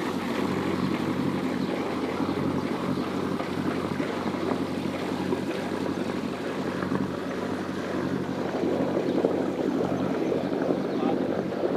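A boat's engine runs with a steady low hum as the boat moves out of the harbour, with water and wind noise over it.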